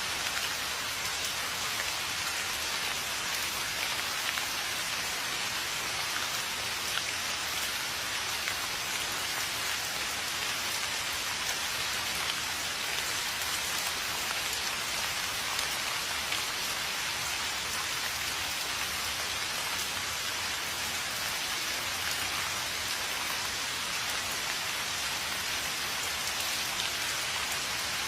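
Steady rain falling on a surface, a dense, even patter of many drops with no let-up.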